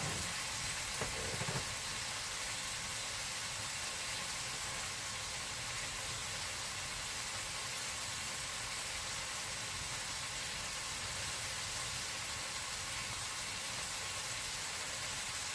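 Food frying with a steady, even sizzle.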